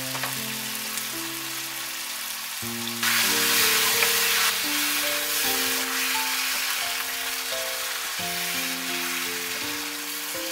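Chicken curry pieces sizzling in mustard-oil gravy in a pot while being stirred with a wooden spatula. The sizzle grows louder about three seconds in and eases off after a second or two. A slow melody of background music plays under it.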